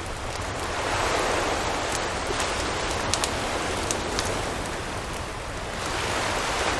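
Surf washing onto a beach, swelling about a second in and again near the end. Scattered sharp crackles and pops from a campfire.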